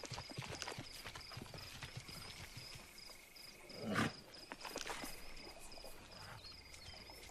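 Savanna ambience: an insect chirp repeating two or three times a second over a steady high drone, with soft clops of zebra hooves and one louder animal sound about four seconds in.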